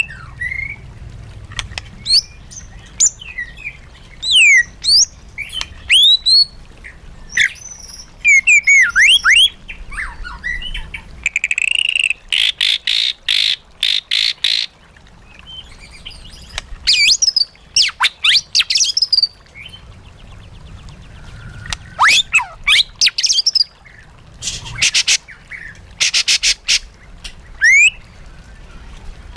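White-rumped shama singing a varied song of loud, clear whistles and swooping notes. Twice the song breaks into a fast train of harsh, rapidly repeated notes.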